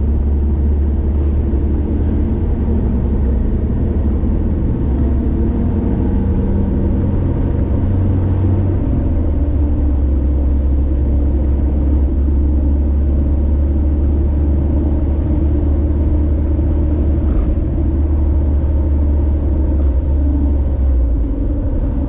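Car travelling along a highway, with a steady low rumble of engine and road noise.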